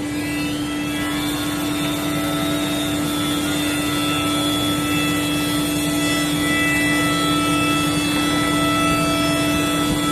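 CNC router running, with a steady high-pitched spindle tone and machine noise under it. A higher tone rises during the first second.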